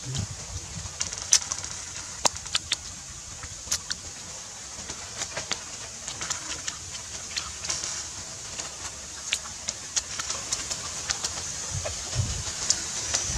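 A person chewing grilled mouse close to the microphone, with many short, sharp wet mouth clicks and smacks, over a steady high hiss.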